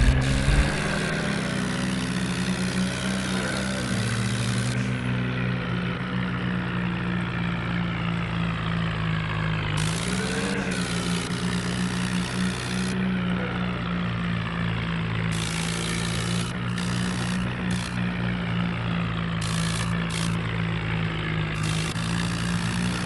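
Remote-control toy tractor running with a steady engine drone that holds one pitch throughout.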